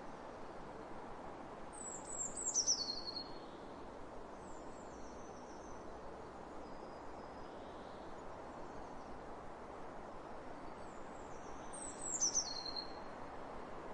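Steady soft rush of wind across open fields, with a small songbird singing a short, quickly falling high phrase twice: about two seconds in and again near the end, with fainter calls between.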